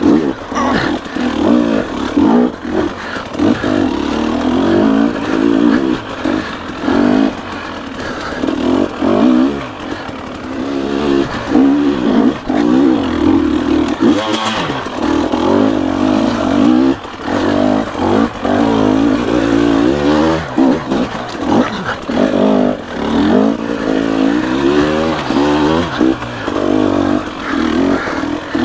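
Dirt bike engine under the rider, revving up and dropping back over and over as the throttle is worked on rough trail.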